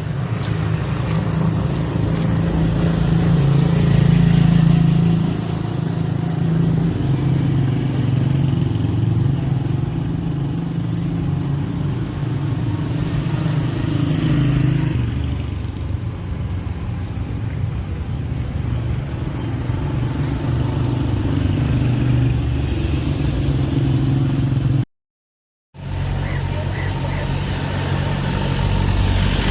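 A motor running steadily with a low, slightly wavering hum, cutting out completely for about a second near the end.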